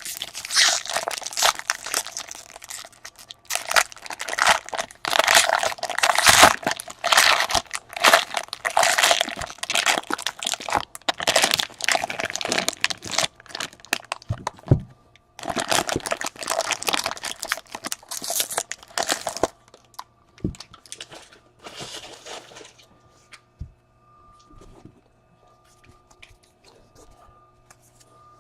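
Plastic wrapping on a box of baseball cards being torn open and crumpled: dense crackling rips and crinkles that stop after about 20 seconds, with one short burst a little later.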